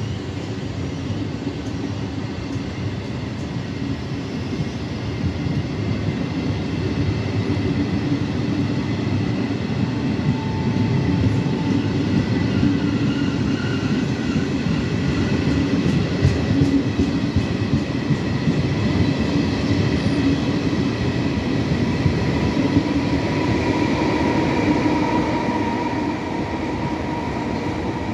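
Passenger coaches of a departing regional train rolling past at close range, wheels rumbling on the rails. The rumble grows louder through the middle and eases near the end as the last coach goes by, with a few thin squealing tones now and then.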